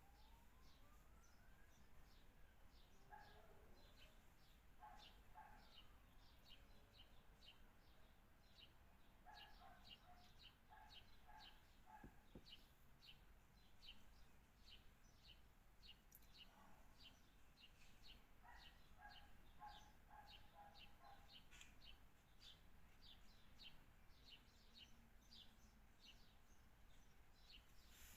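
Small birds chirping faintly, a quick run of short high chirps that goes on throughout. Now and then comes a short cluster of lower repeated notes.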